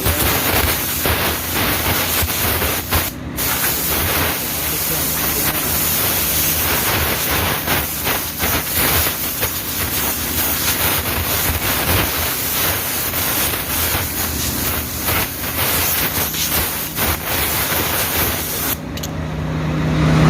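Compressed air hissing in a long, flickering blast, as when blowing out a truck's air filter, over a steady low engine hum. The hiss cuts off suddenly near the end.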